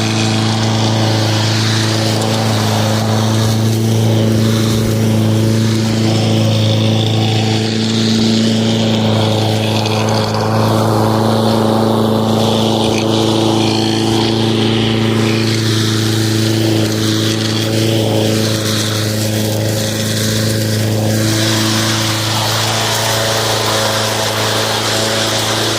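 Lawn mower running steadily at constant speed, a continuous even drone with no change in pitch.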